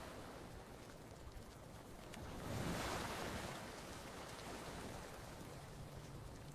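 Gentle ocean surf: a wave swells in about two and a half seconds in, breaks, and washes back out, with a few faint campfire crackles.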